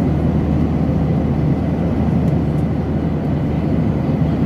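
Steady rushing drone inside a passenger airliner's cabin in flight: engine and airflow noise, heaviest in the low end.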